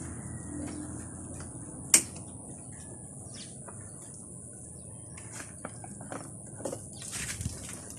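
Birds chirping over a steady high hiss, with one sharp knock about two seconds in and a few lighter clicks later.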